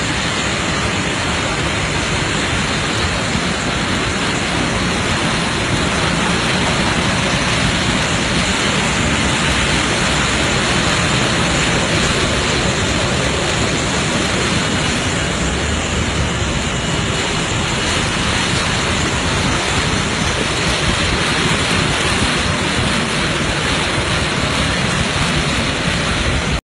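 Steady, loud rushing of heavy rain and wind on the microphone, an even noise with no distinct tones.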